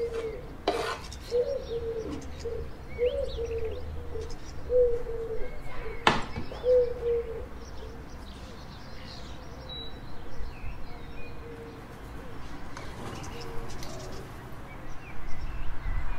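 Birds chirping with a dove cooing over and over through the first half. Two sharp knocks, one under a second in and a louder one about six seconds in.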